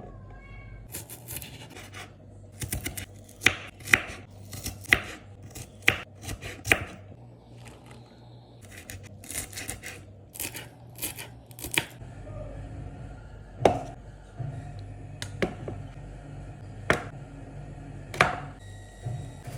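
Kitchen knife chopping on a cutting board: irregular sharp knocks, one or two a second, thinning to a few spaced strokes after about twelve seconds, over a steady low hum.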